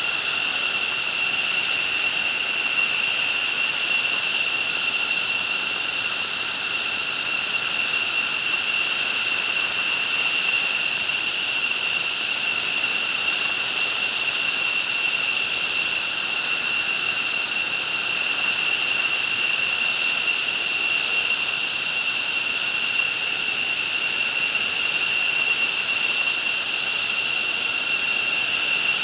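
F-15 fighter's turbofan jet engines running steadily at idle. A constant high-pitched whine, made of several held tones, sits over a steady rush.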